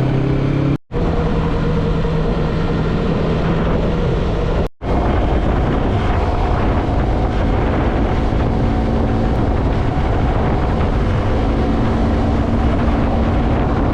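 Yamaha MT-03 motorcycle's parallel-twin engine running at a steady cruising speed, heard over road and wind noise. The sound cuts out for an instant twice, about a second in and near five seconds in, and the engine note is different after the second break.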